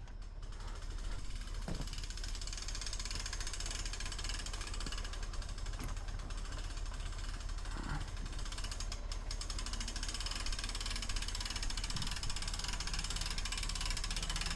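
Engine running steadily, a low even hum under a faint hiss.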